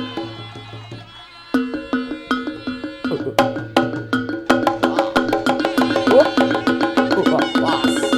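Javanese gamelan music for jaranan: struck metal keyed instruments ringing at fixed pitches over hand-drum and woodblock-like strikes in a quick, busy rhythm. It plays softly at first, then comes in loud and full about a second and a half in.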